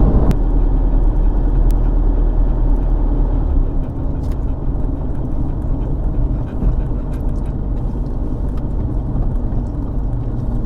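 Road noise inside a moving car's cabin: a steady low rumble of engine and tyres that eases slightly about four seconds in.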